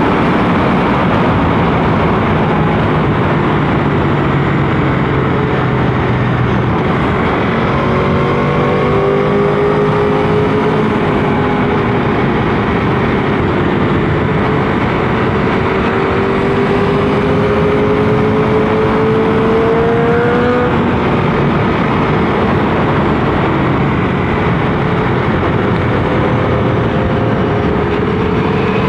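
Motorcycle engine pulling at a steady, loud level under wind rush, its pitch slowly rising and falling with the throttle; a long climb in pitch drops off about twenty seconds in.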